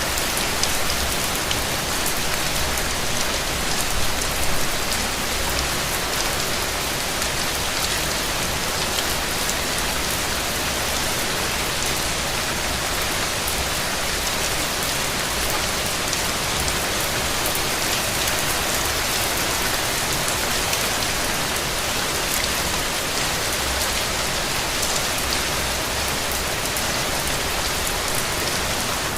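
Steady rain falling: an even, dense patter of countless small drops that keeps up without a break.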